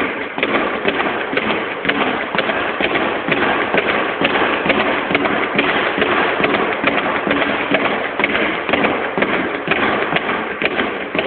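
Speed bag being punched in a fast, unbroken rhythm, rattling continuously against its rebound board.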